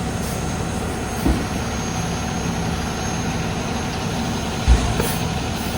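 Heavy diesel construction machinery running steadily, with two low thumps, one about a second in and a louder one about a second before the end.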